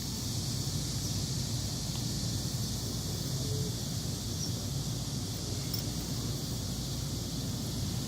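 Cicadas singing in a steady, continuous high-pitched chorus, over a constant low rumble.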